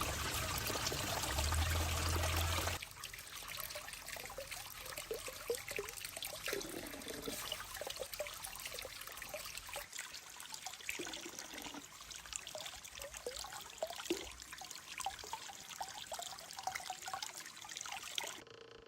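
Water trickling and gurgling, with many small bubbling plinks. It is louder and more rushing for the first three seconds, then settles to a softer trickle, and cuts off near the end.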